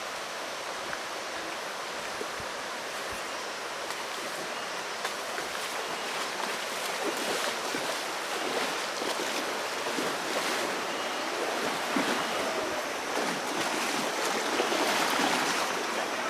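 River water rushing and splashing, a steady noise that grows louder over the second half.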